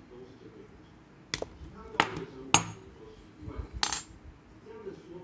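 Small hard objects, such as a metal tool or cable parts, clicking and clinking on a hard work surface: three sharp clicks about half a second apart, then a short clatter near the end.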